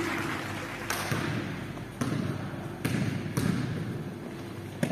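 Basketball bouncing on a gym floor, about five bounces at uneven intervals, each echoing in the big hall.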